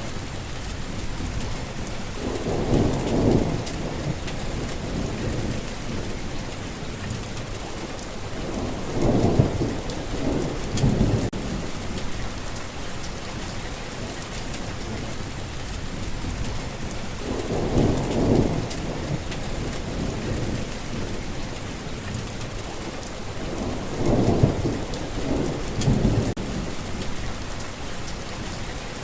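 Steady heavy rain hissing, with low rumbles of thunder swelling up several times, about four rolls in all.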